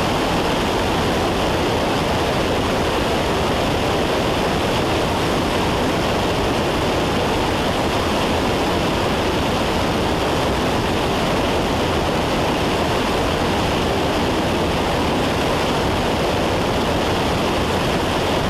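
Steady drone of a Cessna 172's engine and propeller with rushing air, heard inside the cabin in flight.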